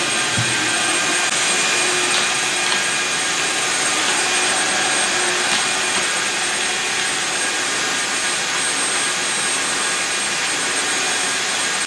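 Tineco S6 Floor One Stretch wet-dry floor cleaner running steadily: a continuous motor hiss with a thin high whine.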